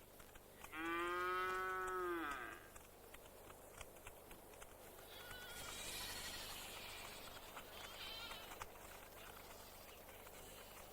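Livestock calling: one long, clear call about a second in, lasting nearly two seconds and falling in pitch at its end. Fainter, higher calls follow in the middle.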